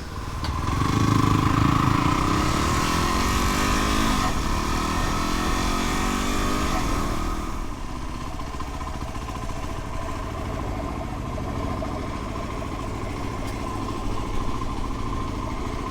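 Dual-sport motorcycle engine running, its pitch rising and falling for the first several seconds, then settling to a quieter, steady run about halfway through.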